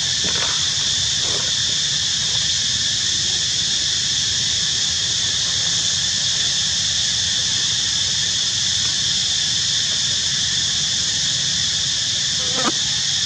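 Steady, unbroken insect chorus, high and buzzing, over a low outdoor rumble. A brief faint click-like sound comes near the end.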